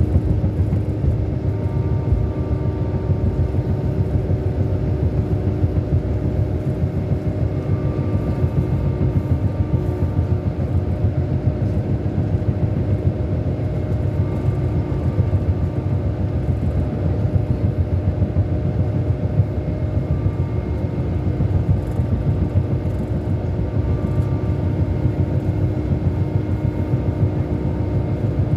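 Scania K400 Euro 5 coach's straight-six diesel engine running steadily: a constant low rumble with a steady hum over it, unchanging throughout.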